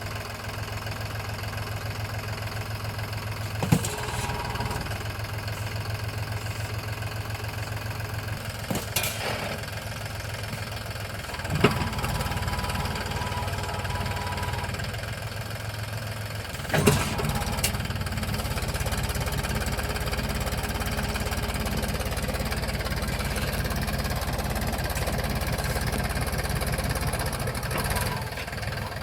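Mahindra tractor's diesel engine running steadily with an even low pulse, with four sharp knocks or clanks spread through.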